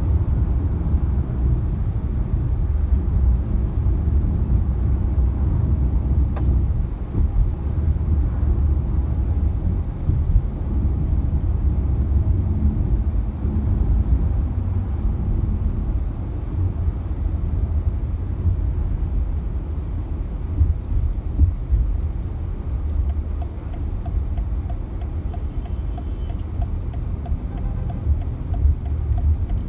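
Car driving at a steady pace, with a continuous low engine and road rumble.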